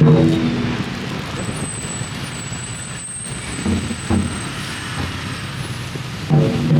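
Busy road traffic running steadily, with a few short, pitched beeps coming in pairs.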